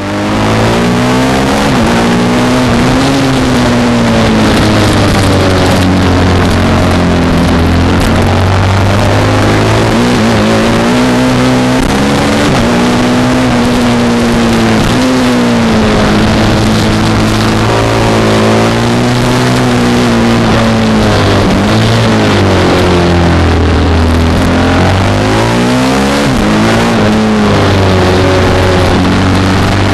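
Racing motorcycle engine run hard on a race circuit, its revs climbing and dropping again and again as it is ridden through the corners, over a constant rush of noise.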